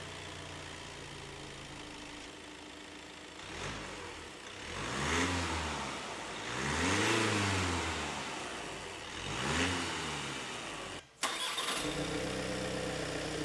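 Volkswagen Golf GTD 2.0 TDI diesel engine idling and being blipped, with three clear revs that rise and fall, breathing through the stock airbox. After a sudden break about 11 seconds in, the same engine idles again with a Ramair open-cone induction kit fitted.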